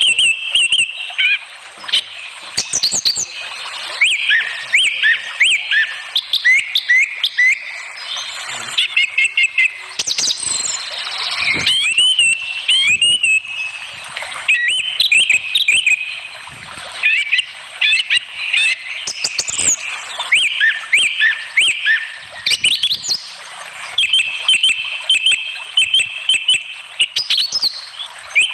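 Birds chirping and singing: quick runs of high, repeated notes and short trills, almost continuous.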